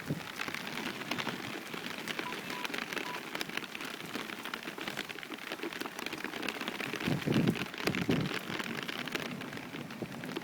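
Rain falling: a steady hiss with many separate drop impacts. Two short low rumbles come about seven and eight seconds in.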